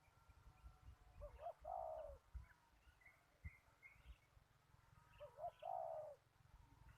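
Zebra dove cooing twice, each phrase a few short notes running into a rolling trill, with small birds chirping faintly in between.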